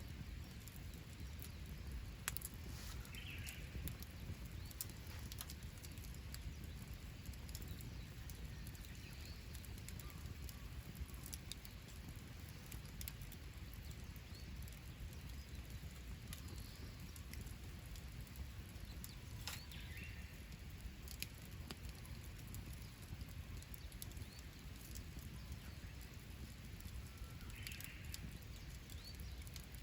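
Wood fire in a campfire stand crackling, with scattered sharp pops over a low steady rumble. Three short bird calls come through, near the start, in the middle and near the end.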